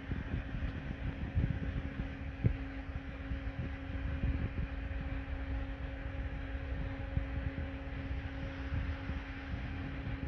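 Steady machine hum with one held tone over a low rumble, and a few light knocks.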